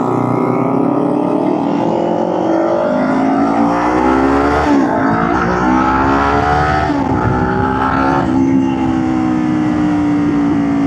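Motorcycle engine accelerating, its pitch climbing, then dropping sharply at two gear changes about five and seven seconds in, before holding at a steady cruise.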